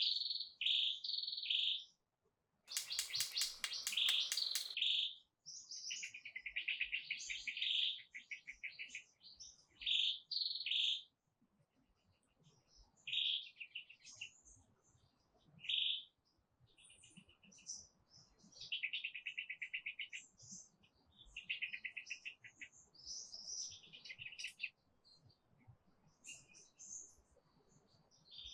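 Songbirds chirping and singing in short, repeated phrases, with a brief buzzy rattle about three seconds in.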